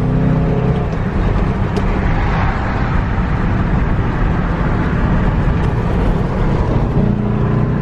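Car engine and road noise heard from inside a moving car. A steady engine note gives way after about a second to a louder, even rush of noise, and the engine note comes back near the end.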